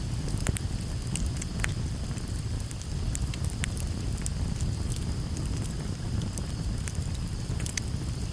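Campfire burning, crackling and popping with many sharp, irregular snaps over a steady low rumble.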